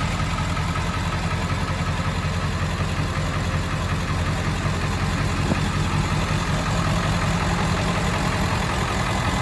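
A turbocharged early-1999 engine idling steadily with a low, even rumble, and a faint steady turbo whistle above it.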